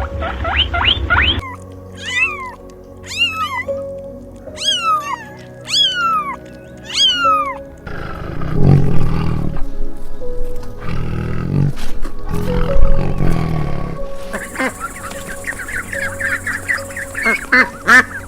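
A string of different animal calls over background music: first about six falling squeals, then low, deep growls or roars from about 8 seconds, then a high, rapid chattering near the end.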